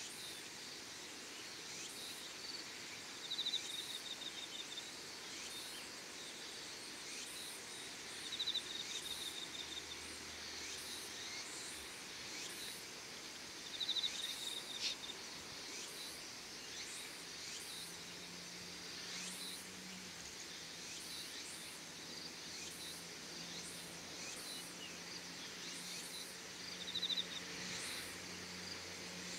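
Outdoor evening ambience with insects singing: a steady high hiss of insect calls and faint ticks. A louder high, fast-pulsed chirping phrase about a second long comes four times.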